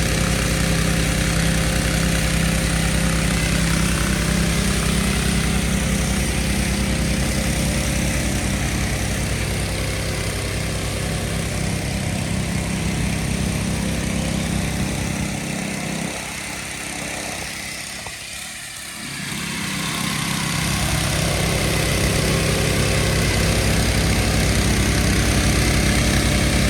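Gas-engine pressure washer running steadily with a broad hiss over its engine hum; the low hum fades briefly about two-thirds of the way through, then returns.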